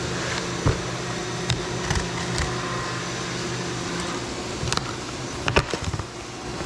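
Steady hum of a Robodrill CNC mill running a cutting job, with a low tone that drops out about four seconds in. Scattered light clicks and knocks from opening a cardboard box over it.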